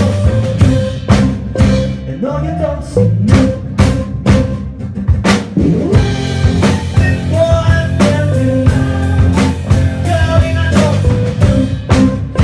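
Live rock band playing loudly: drum kit with sharp regular hits, bass, guitar and keyboard, with a singing voice over it.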